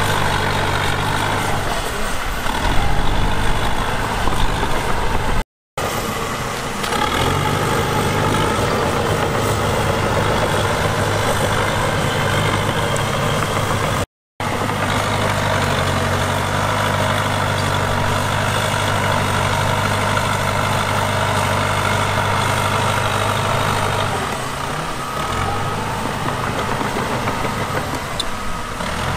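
Heavy diesel engine of earthmoving equipment running steadily, with a low engine hum and mechanical clatter. The sound drops out completely twice for a moment, and the low engine note dips briefly near the end.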